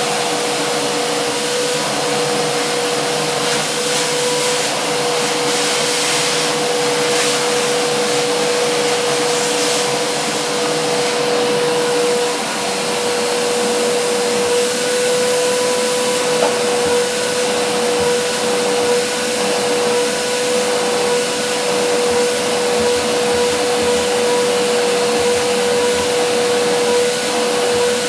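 Vacuum cleaner running steadily, a constant whine over the rush of air.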